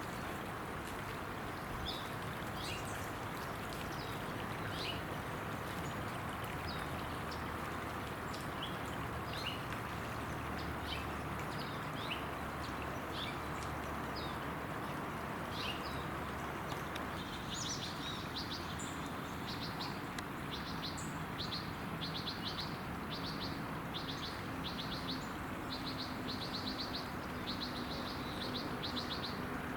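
Small birds chirping: scattered short, high calls, then from a little past halfway a fast, rapidly repeated series of high notes, over a steady background hiss.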